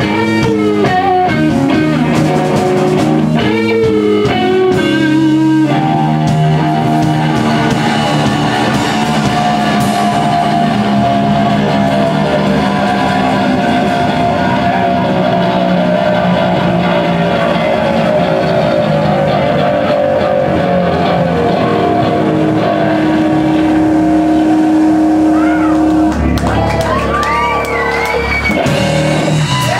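Electric guitar playing a rock solo: bent notes in the first few seconds, then long held notes, ending with wide swooping bends up and down in pitch.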